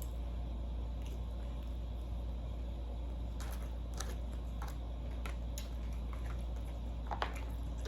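Soft eating sounds, a few faint chewing and mouth clicks, over a steady low hum.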